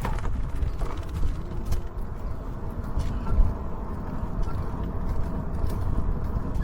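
E-bike ride: a steady low rumble of wind and road on the camera microphone, with irregular mechanical rattling and creaking from the bike.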